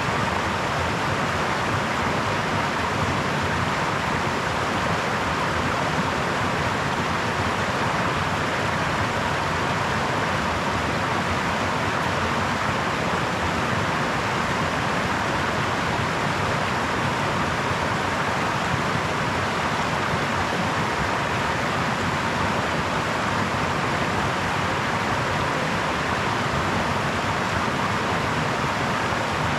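A brook flowing in a steady, even rush of water, with no breaks or distinct splashes.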